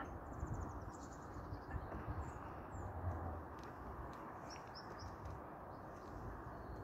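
Outdoor ambience: short, high bird chirps now and then over a steady low rushing background, with a few faint clicks.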